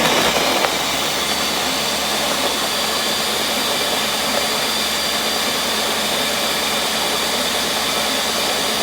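Countertop blender running, chopping frozen peaches, strawberries and banana with almond milk into a smoothie. It is a little louder in the first moment, then settles into a steady, even whir.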